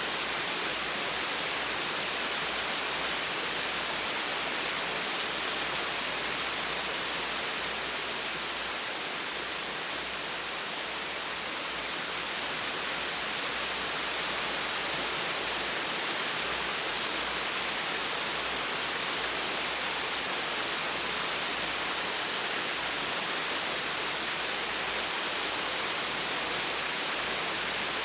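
Gentle waterfall: falling water rushing and splashing in a steady, even hiss.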